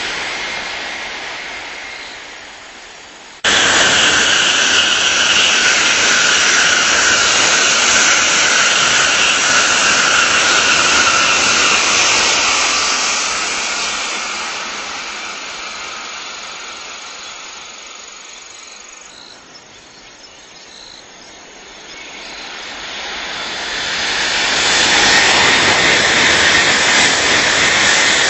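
Tokaido Shinkansen high-speed trains running past on an elevated track, a loud steady rush of wheel and air noise. A receding train fades away, a loud rush cuts in abruptly about three seconds in and slowly dies away, then another train swells up and passes near the end.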